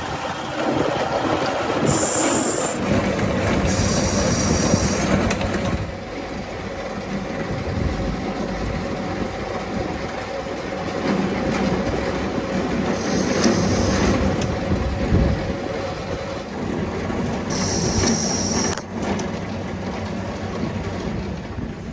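Workshop machinery running steadily, with four separate bursts of high-pitched squealing.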